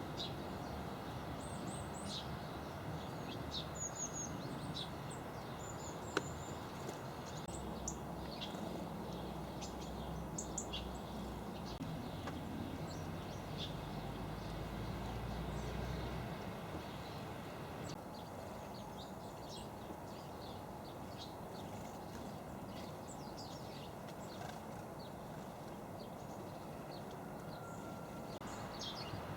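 Small garden birds chirping and calling, many short high chirps at irregular intervals over steady background noise, with one sharp click about six seconds in.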